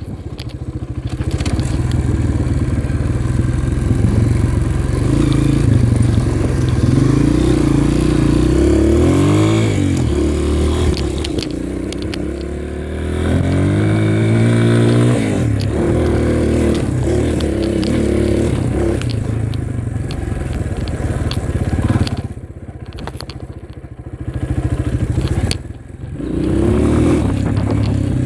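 Dirt bike engine running under way, its pitch climbing and dropping as the throttle is worked and the gears change. The pitch sweeps up about a third of the way in and again around halfway, and the throttle is rolled off briefly twice near the end.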